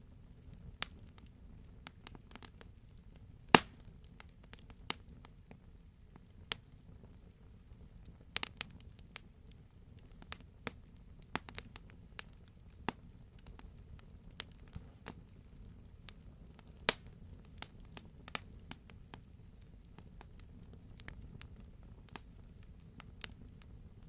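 Campfire crackling: irregular sharp pops and snaps from burning wood, a loud pop about three and a half seconds in, over a low steady rumble of the fire.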